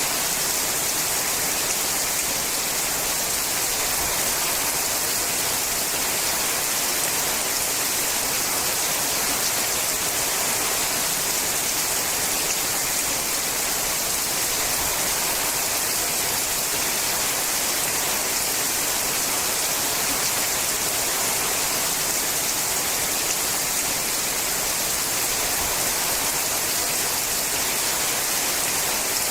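Steady rain falling on a sheet-metal roof: a dense, even hiss with no single drops standing out and no change in strength.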